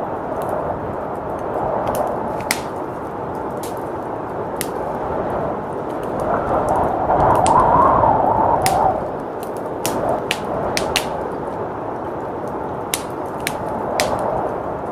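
Wood fire crackling, with scattered sharp pops, over a steady blizzard wind that swells into a stronger gust about halfway through.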